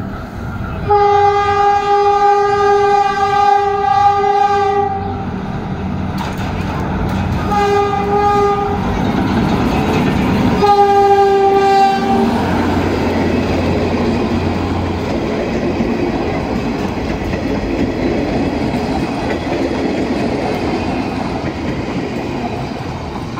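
PNR train sounding its horn: one long blast of about four seconds, then two shorter blasts, followed by the steady running noise of the train with its wheels clicking over the rails.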